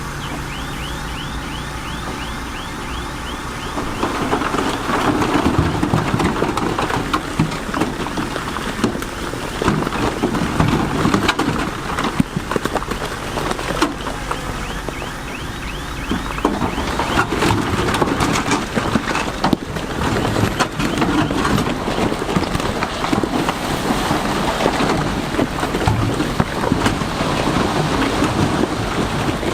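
Heavy earthmoving machinery running, with a dense crackle of stones grinding and tumbling that gets louder about four seconds in.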